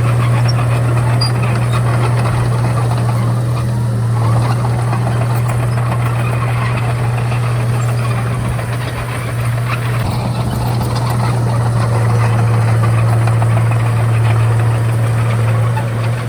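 Komatsu D31A bulldozer's diesel engine running, a steady low drone that dips slightly about nine seconds in.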